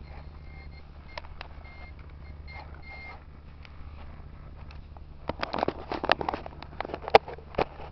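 RC model Kamaz truck with a steady low engine-like hum and short repeated beeps at one pitch, like a reversing alarm, in the first three seconds. From about five seconds in comes a run of sharp clicks and knocks, the loudest about seven seconds in.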